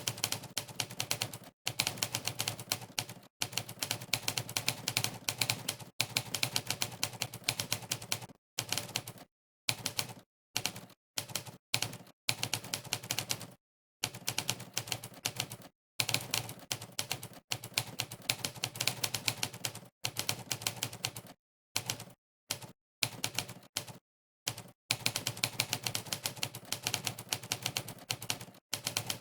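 Monkeytype's 'typewriter' keystroke sound effect, one typewriter key strike per keypress, clattering in fast runs of typing broken by short gaps of dead silence.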